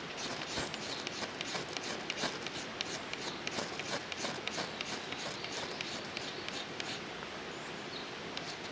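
Sharp irregular clicks and cracks of small wood being cut or broken by hand, several a second for about seven seconds, over a steady outdoor hiss.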